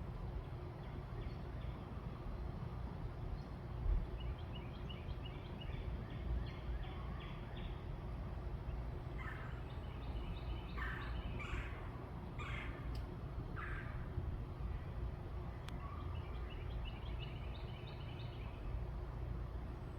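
Birds calling: quick series of short high notes, then a run of five louder, harsher calls in the middle, over a steady low rumble.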